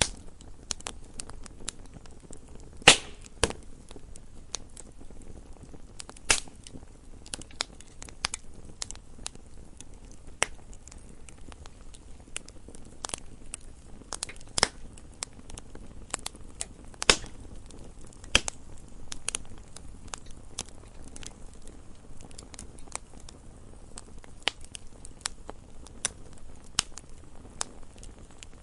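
Campfire crackling: burning wood gives off irregular snaps and pops over a low steady rumble of flame, with several louder pops standing out, the loudest about three seconds in.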